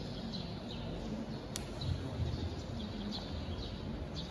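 Small birds chirping in short, high calls every half second or so over a low, steady hall hum, with one sharp click about a second and a half in.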